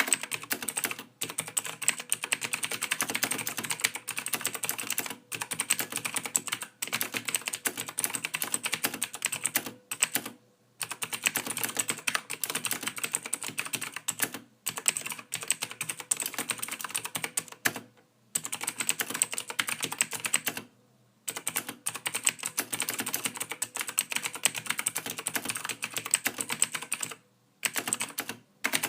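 Typing on a computer keyboard: fast, continuous key clicks in runs of a few seconds, broken now and then by brief pauses.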